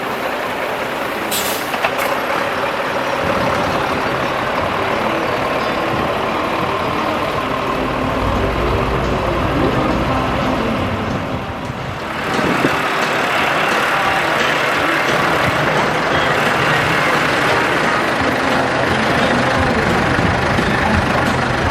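Heavy diesel vehicle engines running steadily, with a short hiss about a second and a half in; the sound dips briefly and then grows louder about twelve seconds in.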